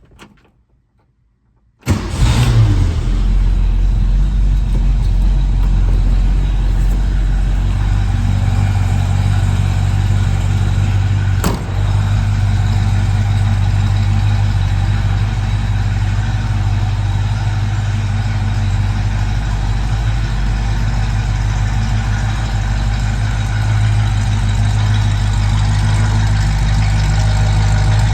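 A 1966 Ford Mustang engine started from cold: it catches with a loud burst about two seconds in, then runs at a steady idle.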